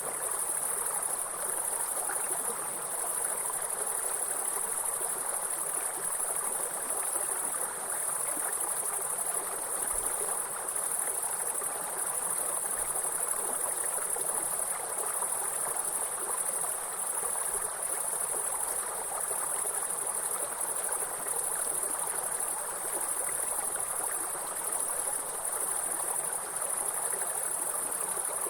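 A steady, high-pitched chorus of insects over the continuous rush of running water from a stream or small waterfall.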